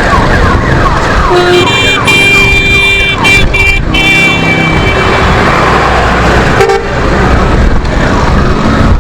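Several vehicle horns honking together in heavy road traffic, held for about four seconds with short breaks, starting about a second and a half in, then one short honk near seven seconds. Under them runs a constant rush of traffic and wind noise.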